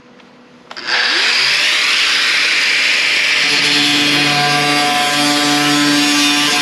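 Power cutting tool starting up about a second in and cutting steadily into the car's body metal: a loud, harsh hiss with steady whining tones, its pitch rising briefly as it comes up to speed.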